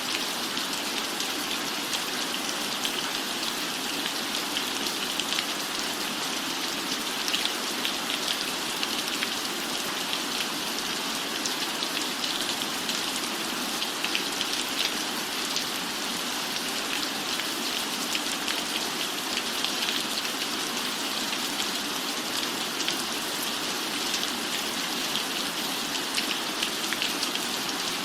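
Steady rain falling on a cabin roof, a dense even hiss with fine drop patter throughout.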